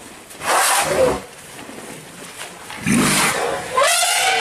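Elephants calling: a few loud, harsh roaring calls with bending pitch, the first near the start and two more close together in the second half.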